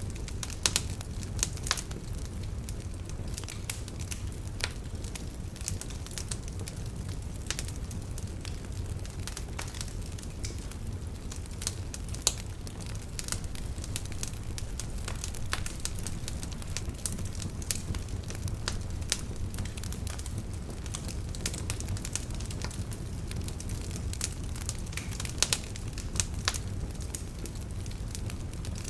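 Log fire crackling in a fireplace: irregular sharp pops and snaps over a steady low rumble of the flames, with a few louder pops now and then.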